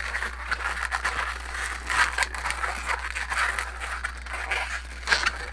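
Orange latex modelling balloon being handled and twisted into small bubbles: a rubbing, crinkling noise of latex on latex and fingers, with many small sharp clicks and squeaks.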